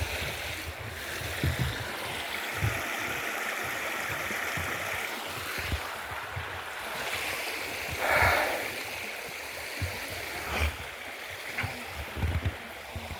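Steady rushing of a flowing stream, with irregular low thumps and one louder swell about eight seconds in.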